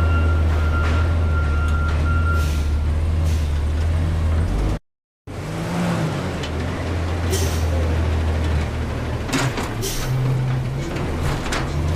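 Front-load garbage truck's engine running with a steady low hum and, over the first few seconds, a thin high whine. After a brief dropout about five seconds in, the engine continues and several sharp knocks sound near the end.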